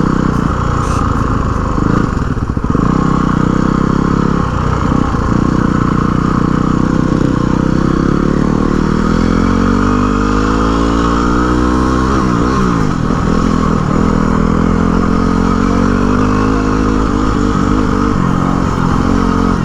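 Single-cylinder Yamaha WR dual-sport motorcycle engine running under way, its pitch rising as it speeds up about halfway through. A second engine's pitch crosses it briefly a little later.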